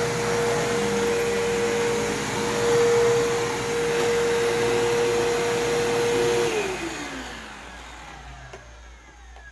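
Bissell 3522-6 upright vacuum cleaner's motor running steadily with a high hum. About six and a half seconds in it is switched off, and the motor winds down with a falling pitch.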